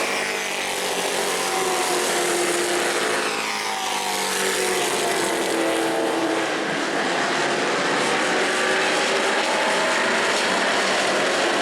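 A pack of race trucks running at racing speed, with several engines sounding at once and their pitch rising and falling as they accelerate and lift.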